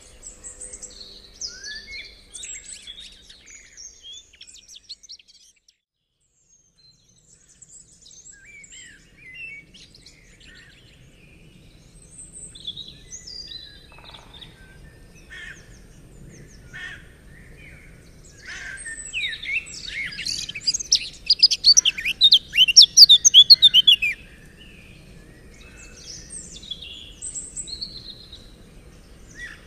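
Songbirds chirping and calling, with short scattered notes and a loud burst of rapid, repeated falling notes about two-thirds of the way through.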